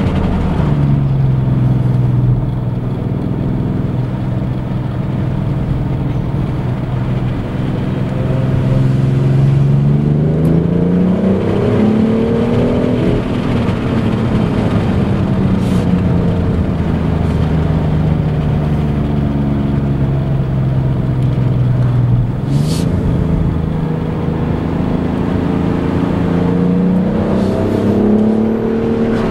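BMW M760i's twin-turbo V12 engine running under way: mostly a steady low engine note, which climbs in pitch about halfway through and falls back, then rises sharply about three quarters of the way in and climbs again near the end.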